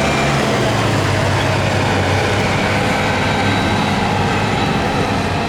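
An engine running steadily at an even pitch, with no revving.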